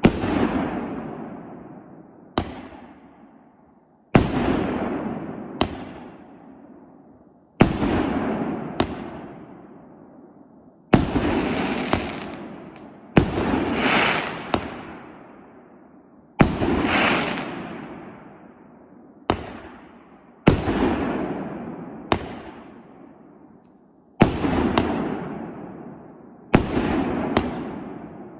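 A 2-inch, 36-shot firework cake firing its shells in sequence: a sharp bang roughly every one to two seconds, each followed by a noisy tail that fades away over two to three seconds.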